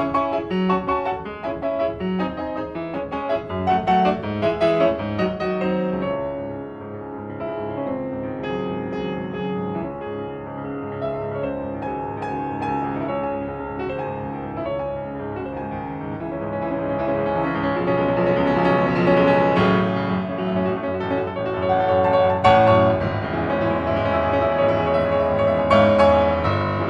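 Piano music, with notes and chords that grow softer then swell louder again in the second half.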